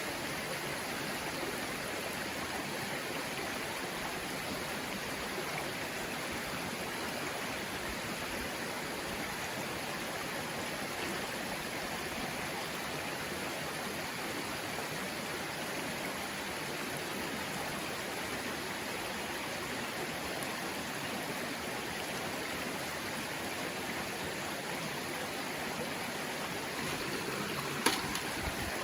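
Mountain stream running over rocks: a steady, even rush of water. A single sharp click or knock sounds near the end.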